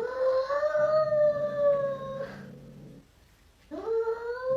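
A dog howling: two long drawn-out howls, the second starting near the end and sliding down in pitch.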